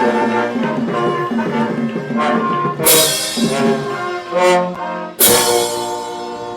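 Brass band playing sustained chords, with cymbal crashes about three seconds in and again just after five, the last chord ringing and dying away near the end.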